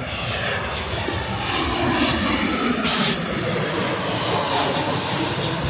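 Jet airliner engines running, a steady rush of noise with a high whine that swells to its loudest about three seconds in, then eases off slightly.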